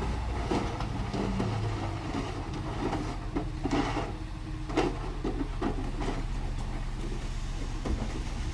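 Mitsubishi bulldozer's diesel engine running steadily, with irregular sharp metallic clanks and knocks over it, the loudest two near the middle.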